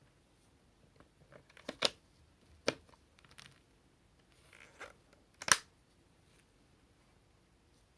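Sharp clicks and knocks from plastic vacuum-cleaner parts being handled, with three louder clicks about two seconds in, near three seconds and about five and a half seconds in, and softer rattles between them.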